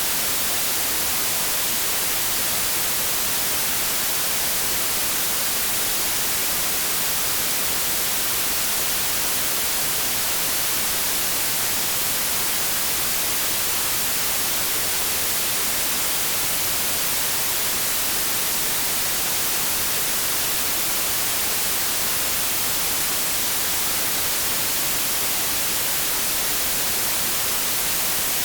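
Steady electronic white noise: an even hiss, loudest in the treble, with no change in level or pattern.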